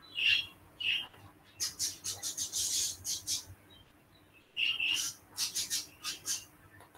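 A small bird chirping in quick flurries of short, high notes, one flurry about two seconds in and another around five seconds, over a faint steady hum.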